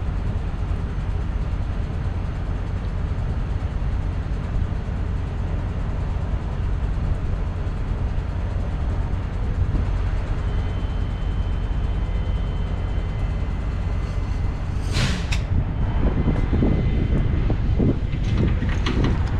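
Heavy diesel engine idling with a steady low rumble. About fifteen seconds in come a few sharp metallic clicks and knocks, then some clatter toward the end.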